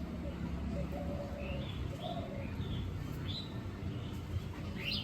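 Bird calls: a series of short, high chirps about every half second, then a quick upward-sweeping call near the end, over a steady low background hum.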